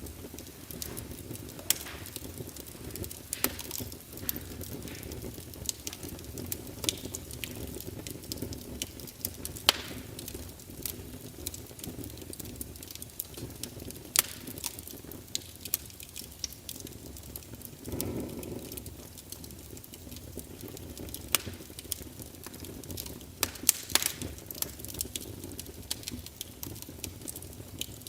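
Fire crackling: irregular sharp pops and snaps over a steady low rumble, with a brief louder swell about eighteen seconds in.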